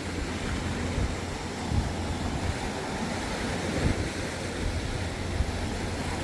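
Surf washing onto a beach, a steady rush of water, with wind buffeting the microphone in irregular low gusts.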